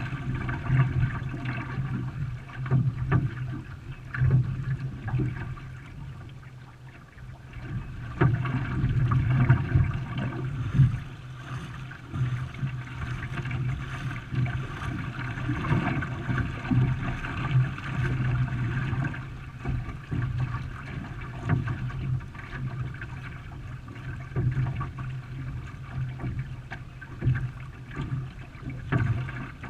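Water splashing and rushing around a canoe under way, in irregular surges.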